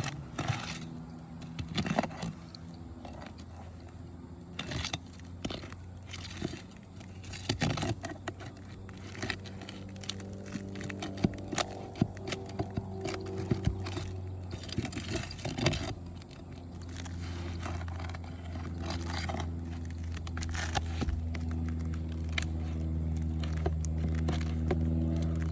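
Scattered clicks and scrapes of a tool prying roofing nails out from under asphalt shingles, over a steady engine hum that grows louder in the second half.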